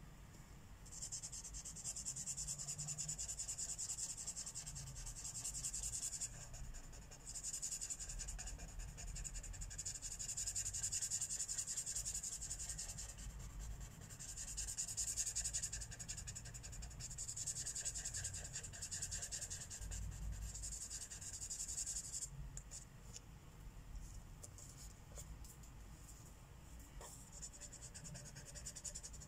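Marker tip rubbing across a colouring-book page as an area is filled in, in long stretches of steady scratchy strokes with short pauses between them. The strokes are softer and sparser in the last several seconds.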